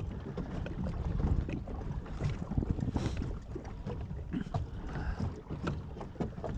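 Water slapping and splashing against a kayak's hull as it moves along, with irregular small knocks and splashes and wind rumbling on the microphone.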